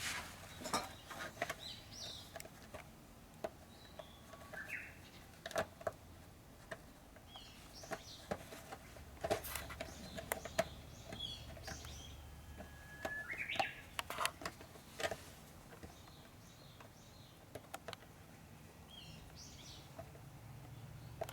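Birds calling in short, scattered chirps, over a low background with many sharp light clicks and taps.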